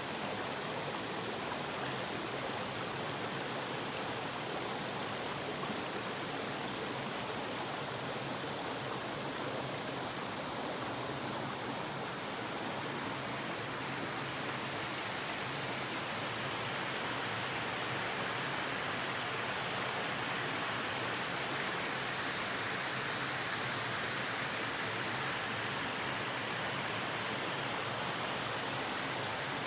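Forest mountain stream rushing steadily, an even, unbroken water noise, with a steady high-pitched hiss running above it.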